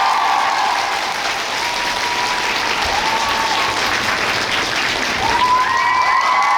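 Arena audience applauding, with high sustained cheers over the clapping at the start and again rising near the end.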